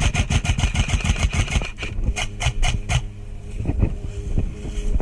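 Airsoft gun firing a rapid string of shots, about ten a second, with a brief break near two seconds and a short final string that stops about three seconds in, over a low rumble.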